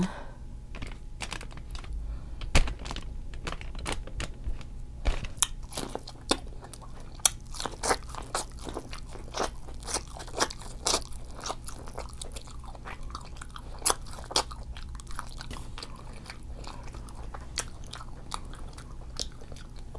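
Close-miked eating of corn on the cob: irregular crunchy bites and chewing, a quick scatter of sharp clicks.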